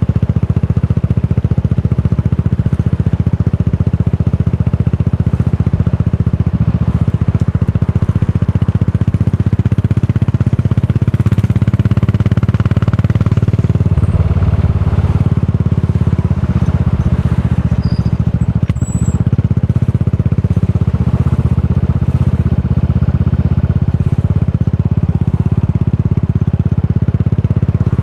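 Exhaust of a Yamaha SR400's air-cooled single-cylinder four-stroke engine, through a Goods tapered cone slip-on muffler, running steadily with a dense pulsing beat. It gets a little louder from about eleven seconds in, with a brief dip a few seconds later.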